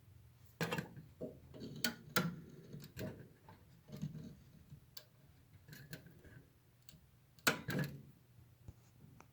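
Air conditioner and heat unit clicking: irregular sharp clicks and ticks, roughly a dozen over several seconds, the loudest about seven and a half seconds in, over a faint steady hum.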